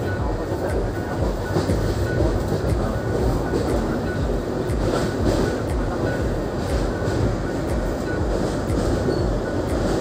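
A passenger train running at speed, heard from inside the coach: a steady rumble of wheels on the track, with scattered clicks from the rails.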